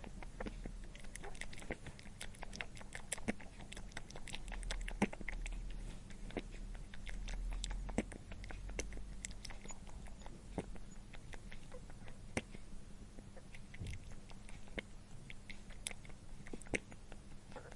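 An animal chewing and crunching food: many small, irregular crunches and clicks.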